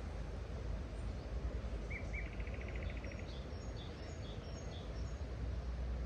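A small songbird singing over a steady low outdoor rumble: two short arched notes about two seconds in, then a quick even trill, followed by scattered short high chirps.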